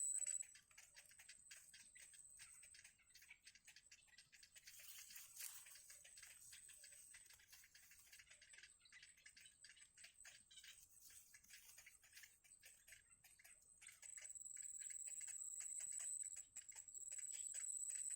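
Faint, rapid, scattered ticking and rustling. A thin, steady, high-pitched whine comes in about fourteen seconds in and holds to the end.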